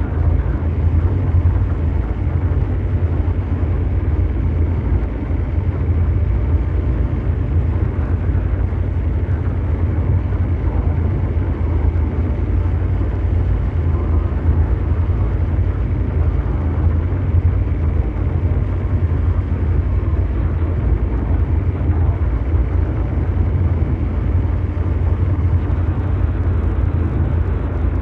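Continuous mechanical drone noise: a low, steady engine-like rumble with a deep hum at its base and a brown-noise hiss above, unchanging throughout.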